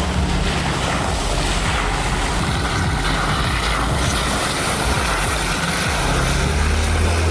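Four-wheel-drive vehicle's engine running steadily, with a broad rushing noise over it.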